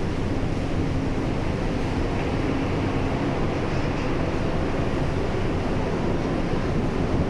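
Steady low rumble of the PELNI passenger ship KM Lambelu under way, with a faint steady engine hum and the rush of wind and sea water.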